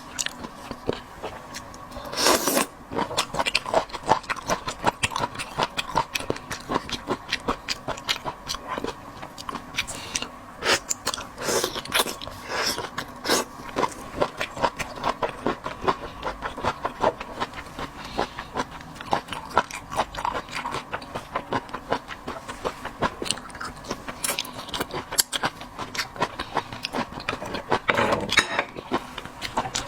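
Close-miked eating of shellfish: wet chewing and mouth smacks with many quick clicks of shells being handled, in an irregular run, with louder bursts about two seconds in and near the end.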